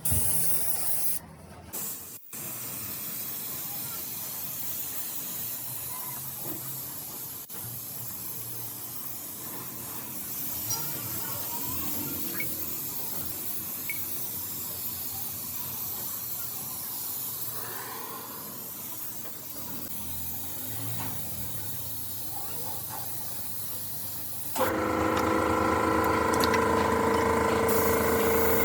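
Steady spraying hiss, cut off briefly twice near the start. About 25 seconds in, a louder machine with a steady hum of several tones starts and runs.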